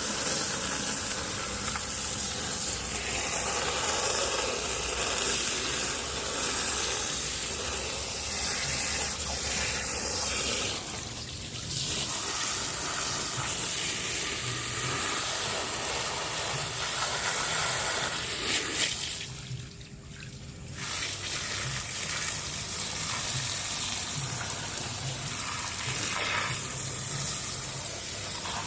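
High-pressure water spray from a car-wash pressure washer hissing steadily onto a muddy RC truck, cutting out briefly twice: about eleven seconds in and again around twenty seconds in.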